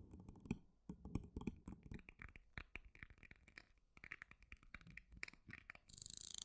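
ASMR trigger sounds close to the microphone: a quick, irregular run of light taps and clicks, several a second, with a hiss starting near the end.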